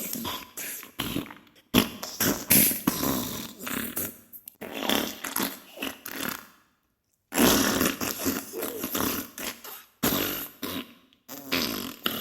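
Diarrhea sound effect: a string of sputtering fart bursts, each a few seconds long, broken by short sudden silences.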